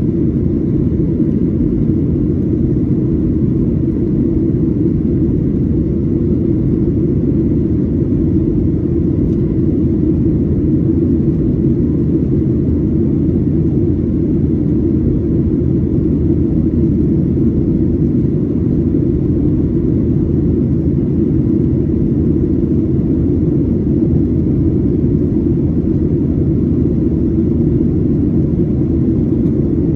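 Steady low rumble of a Boeing 737-800 cabin in the climb: CFM56-7B engine noise and airflow heard from inside the cabin.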